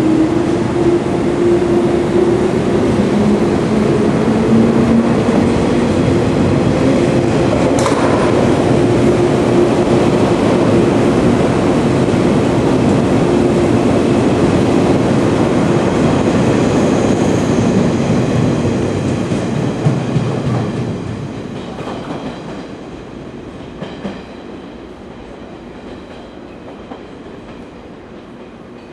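485-series electric limited express train pulling away along the platform: its motors hum with a slight rise in pitch and its wheels clatter over the rail joints, with one sharp click about eight seconds in. The sound fades out after about twenty seconds as the train leaves.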